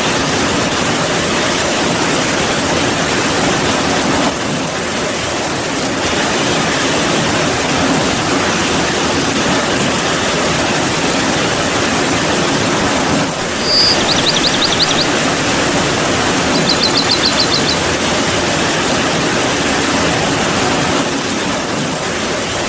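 Steady heavy rain, a dense even hiss. Twice, about two-thirds of the way through, a short high-pitched trill sounds over it.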